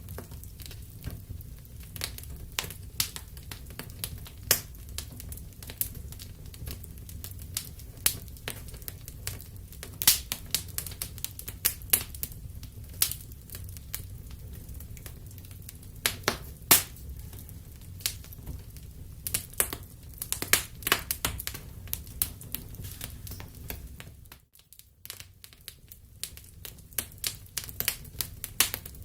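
Wood fire crackling in a fireplace: irregular sharp pops and snaps over a low steady rumble. The rumble and pops drop out briefly about two-thirds of the way through.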